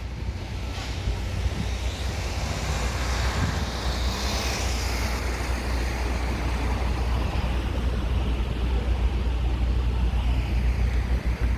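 Steady road traffic noise with a low rumble, swelling as a vehicle passes about four seconds in. Wind buffets the microphone.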